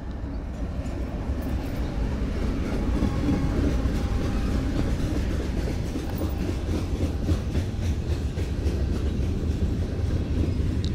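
Freight train passing close by: its diesel locomotives go by first, then covered hopper cars rolling past with wheels clacking over the rail joints. The sound grows louder about two seconds in and stays steady.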